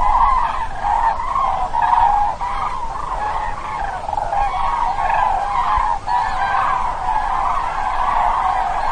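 A large flock of migrating birds calling overhead: many loud calls overlapping without a break.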